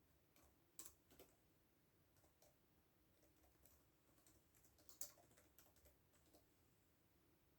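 Faint, irregular computer keyboard typing: scattered keystroke clicks in short runs, the sharpest about five seconds in.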